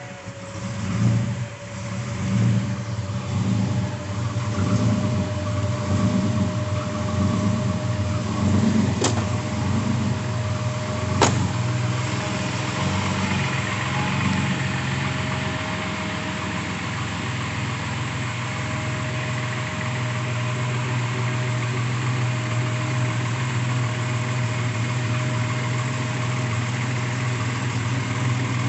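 Built 1998 Chevrolet S10 pickup's engine running just after start-up, surging up and down about once a second before settling into a steady idle. Two sharp clicks come during the surging.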